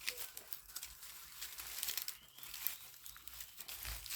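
Paper bags crinkling and rustling in a continuous run of crackles.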